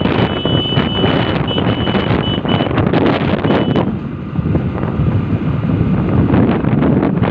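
Wind buffeting the microphone on a moving vehicle, loud and gusty throughout. For the first few seconds a thin, high, steady tone comes and goes in short dashes.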